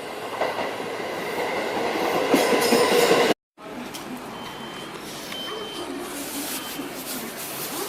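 Electric train running past the station platform, its noise growing louder until it cuts off abruptly a little over three seconds in. After that a quieter steady hiss continues, with a few faint short tones.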